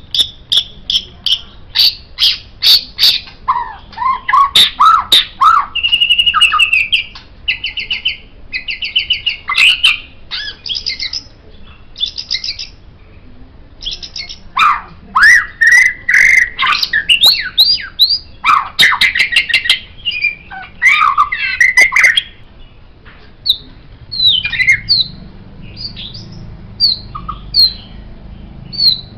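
White-rumped shama (murai batu) singing a loud, varied song of clear whistles, slurred notes and buzzy rattling trills. About two-thirds of the way through it changes to a string of short, sharp chirps, about one a second.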